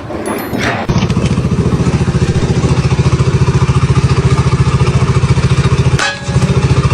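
A small engine running with a fast, even chugging pulse. It starts about a second in after some clattering, and drops out briefly near the end before running on.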